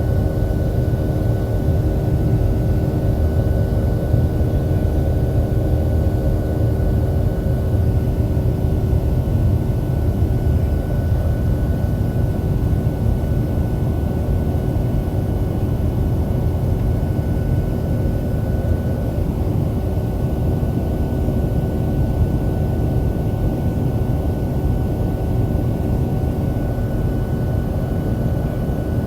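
Boeing 737-700's CFM56-7B turbofan engines heard from inside the passenger cabin: a steady, loud low rush with several constant hums and a thin higher whine over it.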